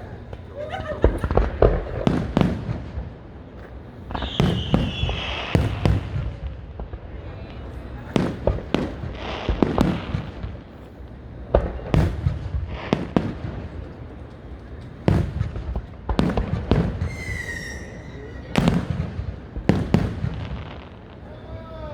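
Fireworks show: aerial shells bursting in a rapid, irregular series of loud booms and crackling bangs. Whistling shells are heard about four seconds in and again near the end.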